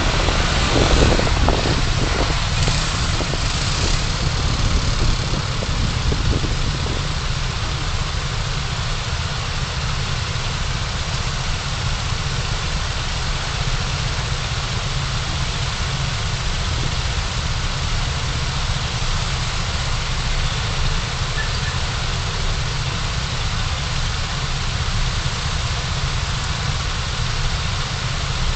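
Car engine and cabin noise heard through a dashcam: a steady low rumble like idling. Louder road or traffic noise runs over it for the first several seconds, then fades to the even rumble.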